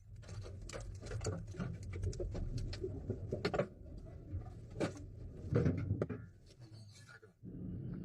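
Irregular sharp taps and clicks, some in quick runs, over a low wind rumble; a few louder knocks near the middle.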